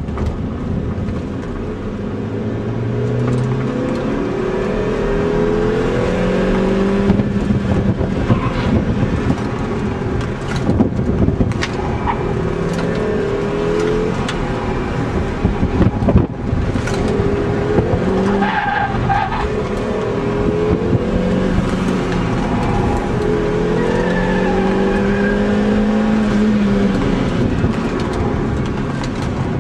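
2005 MINI Cooper's four-cylinder engine heard from inside the cabin on an autocross run, revving up and easing off again and again as the car is driven hard, with tyres squealing at times and a few sharp knocks.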